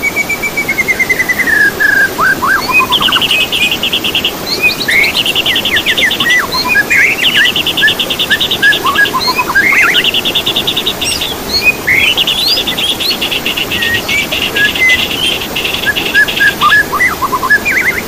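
Songbirds singing: a run of fast, even trills, each held from about one to four seconds, alternating with falling whistles and short chirps.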